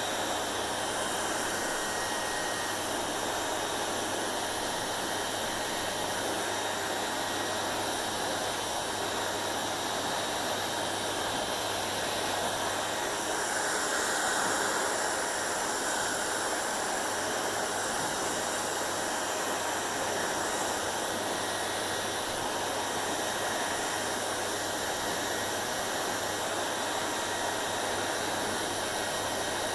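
Hair dryer running steadily: an even rush of blowing air over a constant motor hum. It swells a little louder for a couple of seconds about halfway through.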